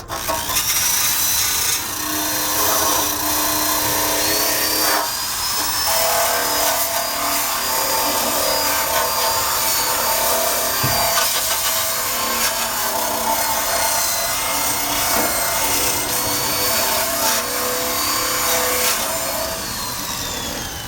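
Corded electric drill with a wire-brush attachment spinning against the steel undercarriage of a 1965 Honda Cub, scouring off rust. It makes a loud scraping hiss over a motor whine whose pitch shifts as the brush is pressed on. Near the end the trigger is let go and the motor winds down with a falling whine.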